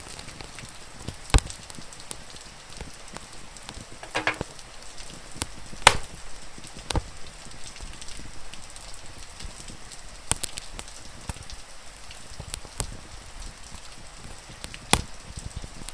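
Wood fire crackling, with sharp pops and snaps every second or two and a short run of quick crackles about four seconds in, over a steady rain-like hiss.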